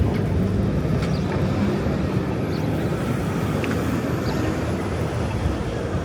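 Steady low rumble of city street traffic, with a vehicle engine running.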